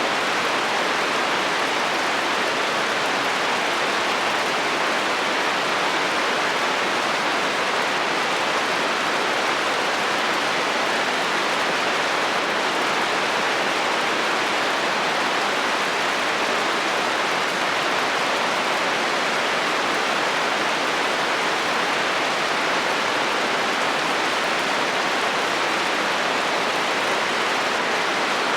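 Steady rain falling on a metal roof, an even hiss that does not change.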